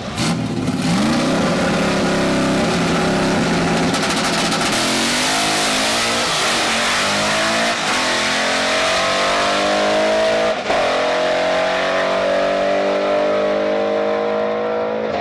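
Drag car's engine at full throttle accelerating down the strip, its pitch climbing steadily over several seconds, with a short break about ten and a half seconds in before it pulls on again.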